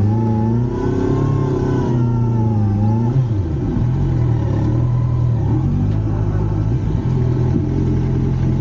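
Motorcycle engine revving, its pitch rising and then falling over the first three seconds, then running steadily at lower revs.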